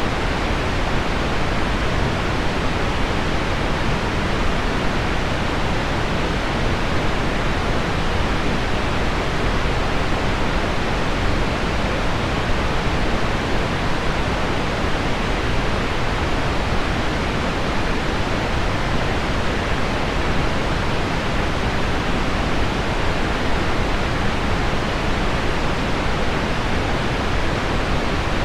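Steady, unchanging pink-noise hiss with no separate drops or clicks standing out: a sleep soundscape of heavy rain on window glass blended into low pink noise.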